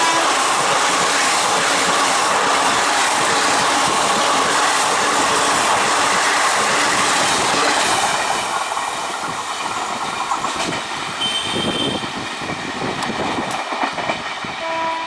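Electric local train running past: a loud rush of wheel-on-rail noise for about eight seconds, then quieter, with wheels clicking over rail joints. A horn note at the very start, and another just before the end.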